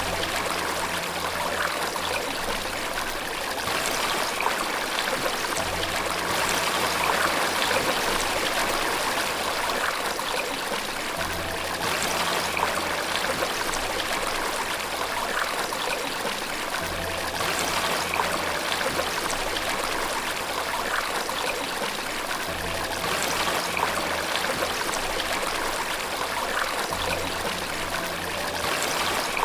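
Steady rushing and trickling of falling water, with soft low sustained notes underneath that change every few seconds.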